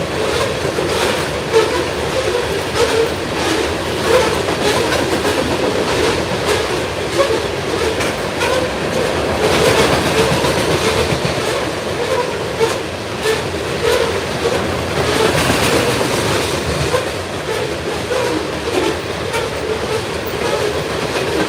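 Freight train rolling past: steel wheels clicking over the rail joints in an uneven run of clicks over a steady rolling rail noise.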